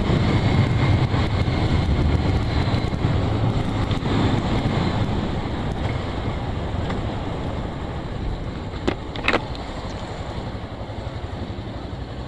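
Motorcycle engine running with wind rush on the helmet microphone, growing steadily quieter as the bike slows down. Two short knocks sound a little after the halfway point.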